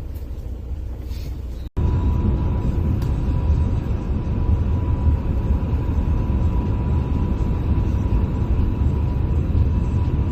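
Steady low rumble of a vehicle on the road. After an abrupt cut about two seconds in, it is louder and carries a faint steady whine.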